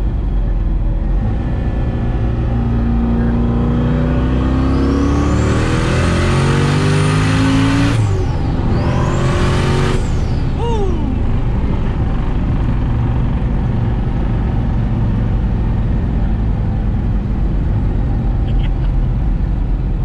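Twin-turbo Corvette Z06 V8 under a hard pull, its engine note climbing for several seconds with a high turbo whistle rising alongside it. The pull breaks off briefly about 8 seconds in, picks up again, and ends just after 10 seconds with a falling whistle as the throttle is lifted. The car then settles into a steady cruising drone.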